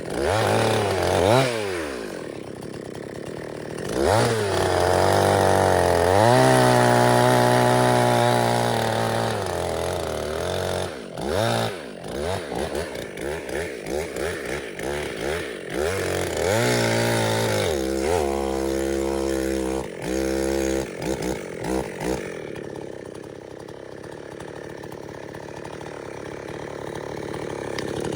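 Two-stroke chainsaw being revved: the throttle is blipped up and down repeatedly, held at high revs twice for a few seconds, then the engine settles to a lower, steadier run near the end.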